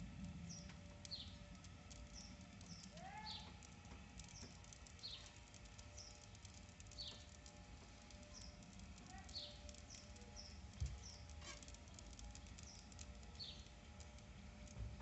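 A bird singing faintly, repeating short, high chirps that fall in pitch every second or two, over a low steady rumble. There is one rising call about three seconds in and a single soft thump about two-thirds of the way through.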